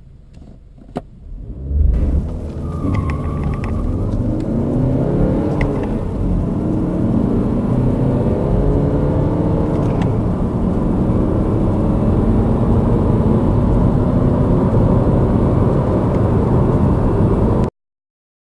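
A car engine under full-throttle acceleration, its pitch climbing steadily and dropping back at each upshift through several gears. It starts with a sudden jump in level about two seconds in and cuts off abruptly near the end.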